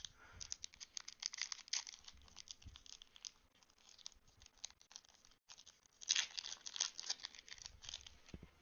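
A Digimon trading card booster pack being torn open, its wrapper crinkling and crackling in short scratchy bursts, busiest about six to seven seconds in.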